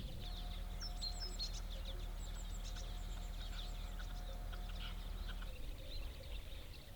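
Several small birds chirping and singing in quick, overlapping calls, over a steady low hum that stops about five and a half seconds in.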